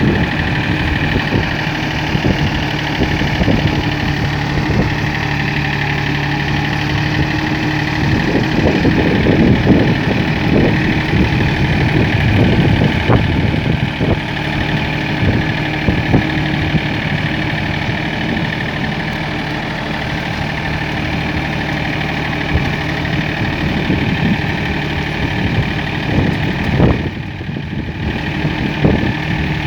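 Tractor engine running steadily under irregular clattering knocks. It briefly drops in level near the end.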